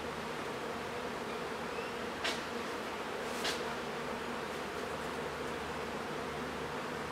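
Honeybees buzzing steadily around an open hive, with two brief clicks about two and three and a half seconds in.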